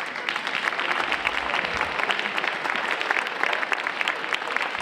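Audience applauding, a dense mass of many hands clapping that swells just before and holds steady.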